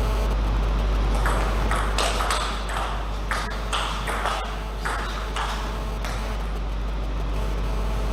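Table tennis rally: the ball clicking off bats and table about a dozen times in quick succession, stopping after about four seconds. A steady low hum runs underneath.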